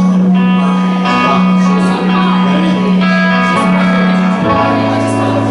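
Live band playing a number: guitars over long held bass notes that change pitch every second or so.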